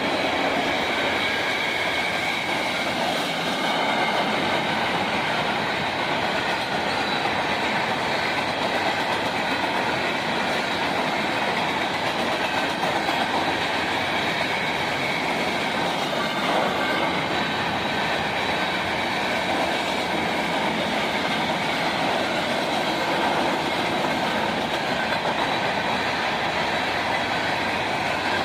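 Train rolling along the track: a steady noise of steel wheels on rail, with faint high tones from the wheels.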